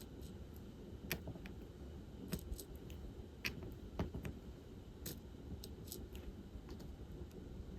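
Diamond painting: irregular small clicks and taps as resin drills are picked up and pressed onto the canvas, a dozen or so in a few seconds, over a faint low hum.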